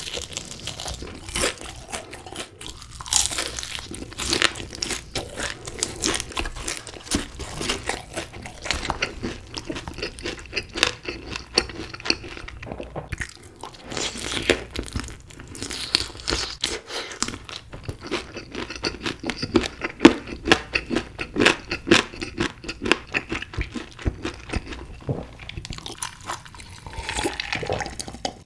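Close-miked crunching and chewing of crispy honey-glazed fried chicken: dense, irregular crackles and bites with wet mouth sounds. Near the end, drinking from a bottle.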